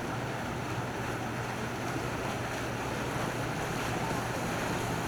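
Boat engines running steadily as boats pass through a channel, with water wash and wind buffeting the microphone.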